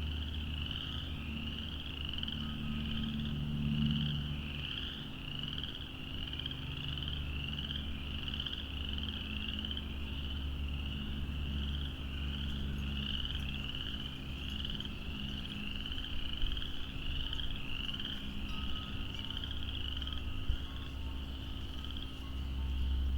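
A chorus of frogs calling, a dense run of short, high-pitched repeated calls overlapping one another, with a low rumble underneath.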